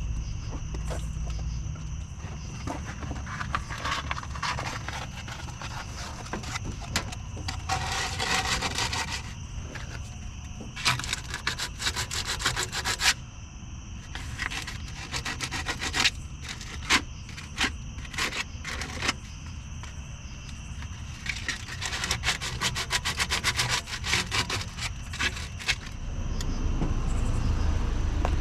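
Old RTV silicone sealant being scraped off a metal gasket mating surface, in spells of quick, repeated back-and-forth strokes as the surface is cleaned for a new gasket.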